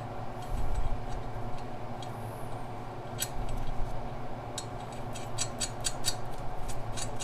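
Small metal clicks from a hand wrench working two nuts jammed together on a manifold stud. A few scattered clicks come first, then a quicker run of clicks over the last couple of seconds, with a steady low hum underneath.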